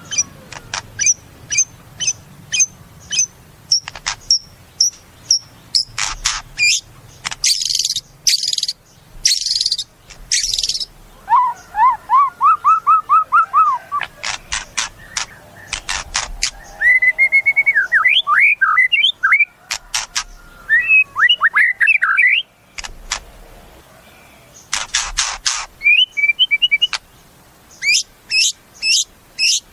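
White-rumped shama (murai batu) singing a varied song. It runs through sharp repeated chips, a few harsh rasping notes, rapid trills and quick warbled phrases.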